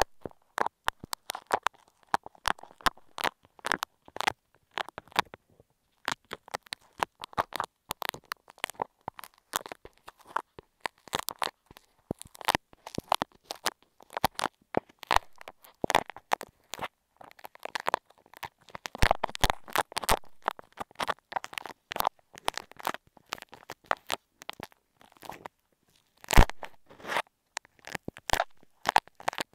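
Grainy bead clay worked against an earphone microphone, giving dense, irregular crisp crackles and crunches. There are short pauses about five seconds in and again near the end.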